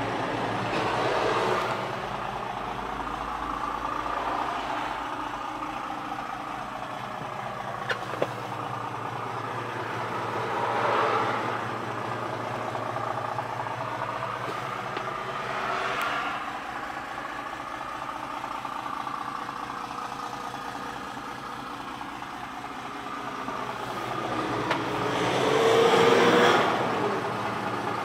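Isuzu Elf truck's 4HL1 four-cylinder diesel engine idling steadily. Passing traffic swells up and fades a few times, loudest near the end.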